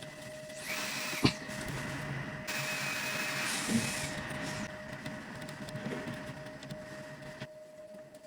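Small machine on a phone-repair bench: a steady hum tone with two bursts of hissing air-like noise, a short one and then a longer one, and one sharp click just after the first burst.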